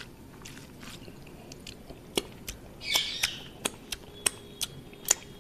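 Close-up mouth sounds of a person chewing rice and curry eaten by hand: a string of sharp, wet lip smacks and tongue clicks, about eight of them, starting about two seconds in.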